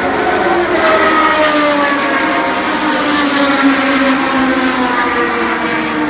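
Engine running with a steady drone whose tones slide slowly down in pitch, as when it winds down, with extra hiss over the first few seconds.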